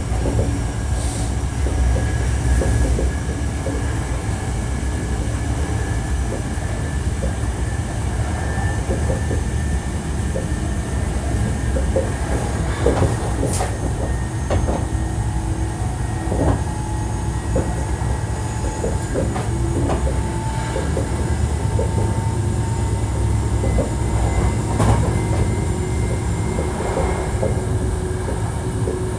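Hankyu 1300 series electric train car running at speed, heard from inside: a steady low rumble of wheels on rail, with scattered clicks over rail joints and faint steady whining tones from the drive.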